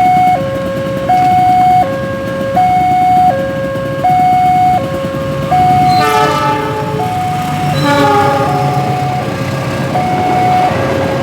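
Railway level-crossing warning alarm sounding a steady two-tone signal, alternating high and low about every three-quarters of a second. About six seconds in, a train horn sounds twice, the second blast lower in pitch, over the rumble of the train.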